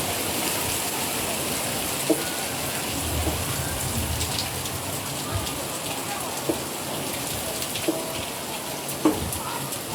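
Rain falling steadily, a continuous hiss, with a few short sharp knocks.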